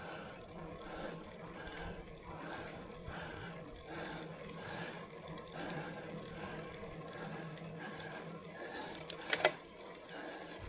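A cyclist breathing hard and rhythmically while climbing a steep grade, over steady road and wind noise. A brief sharp squeak comes about nine seconds in.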